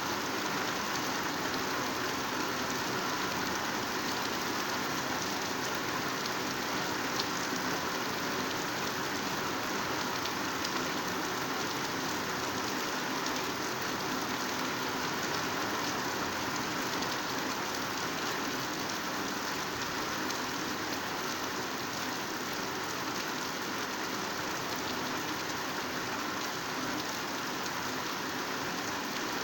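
Heavy rain falling steadily on foliage, an even hiss thick with fine patter of drops.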